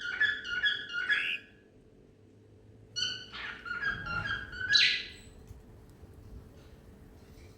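Cockatiel whistling its song: a run of stepping whistled notes that ends about a second in, then after a pause a second whistled phrase that finishes on a louder, harsher note about halfway through.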